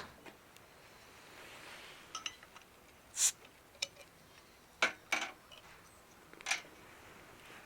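Irregular sharp clicks and light clinks of small hard objects, about half a dozen, the loudest a little past three seconds and just before five seconds in.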